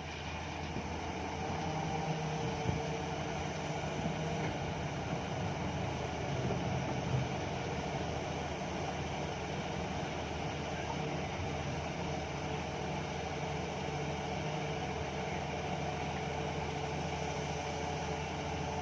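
Heavy diesel engines of a dump truck and excavator running steadily as a low hum during coal loading, with a couple of faint knocks a few seconds in.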